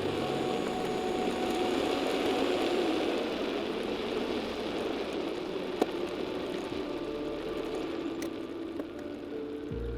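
Steady vehicle engine and road noise while driving, with one sharp click about six seconds in.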